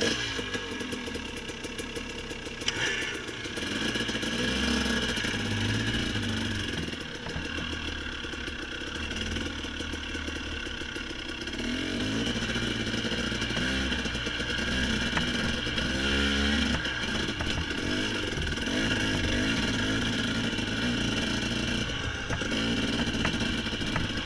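Dirt bike engine running under load on a hill climb, its pitch rising and falling repeatedly as the throttle is worked.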